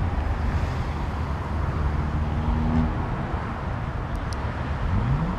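Car engines running and passing, with steady road noise; near the end one engine's pitch climbs as it revs.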